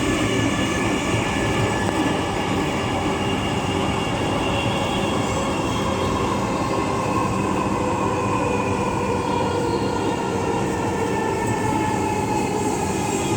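Dhaka Metro Rail train running between stations, heard from inside the carriage: a steady rumble of wheels on track with a faint motor whine that falls slightly in pitch near the end.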